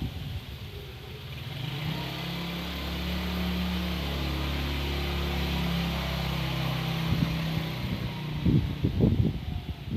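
A steady, low drone with a hiss over it, a film sound effect for a magic sword drawn from its sheath. It swells in over the first couple of seconds, holds, and cuts out about three quarters of the way through, giving way to gusts of wind and rustling.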